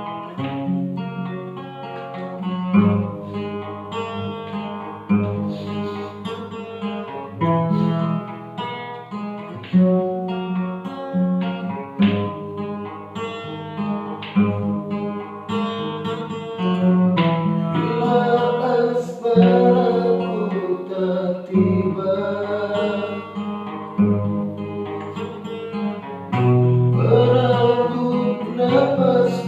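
Acoustic guitar playing a song in picked and strummed notes with a bass line, and a voice singing along from about halfway through.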